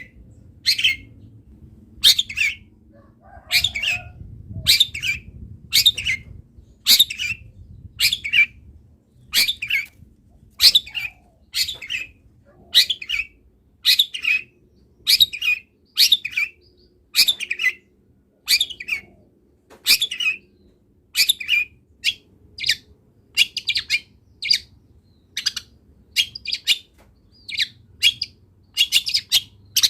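Long-tailed shrike (cendet) calling: loud, short, sharp high notes repeated about once a second, coming faster near the end.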